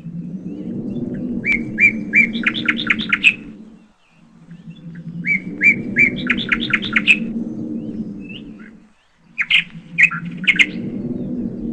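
A shrike calling in three bouts of quick, high chirps that speed up and grow louder, about four seconds apart. Under them a low hum swells and fades with each bout.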